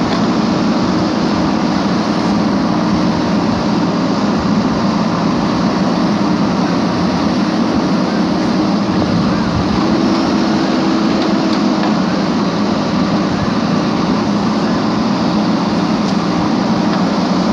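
A steady mechanical hum with a constant low pitch and an even rushing noise over it, unchanging in level throughout.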